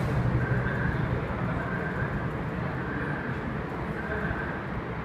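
TVS Apache RTR 200 4V's single-cylinder engine running steadily through its exhaust, a low pulsing rumble.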